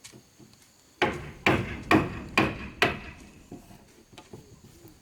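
A hammer striking wood: after a quiet first second, about five hard blows come roughly half a second apart, then a few lighter taps.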